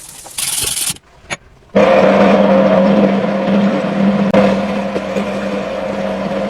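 A brief hiss and a click, then a power tool's motor starts and runs steadily at a constant pitch, with grinding noise over it.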